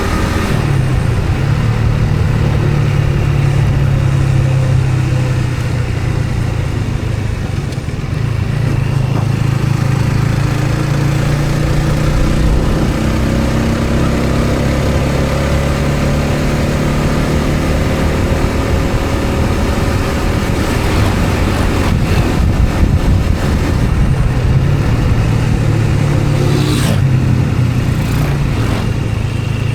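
A road vehicle's engine running on the move, with steady road and wind noise and the engine note rising and falling gently. A short sharp knock sounds near the end.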